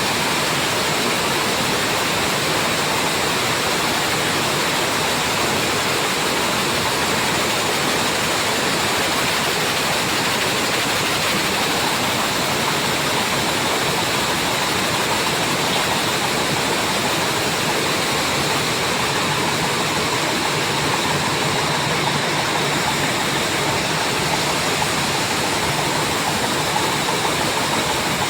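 A washing machine drying cloth: a loud, steady rushing noise that holds even throughout, with no distinct beat or pitch.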